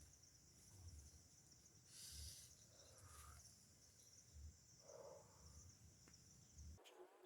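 Faint insects trilling steadily in a high, continuous drone, with soft low rumbles of wind against the microphone now and then; the drone cuts off abruptly near the end.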